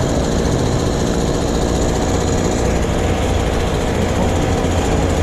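Heavy recovery trucks' diesel engines running steadily while winching.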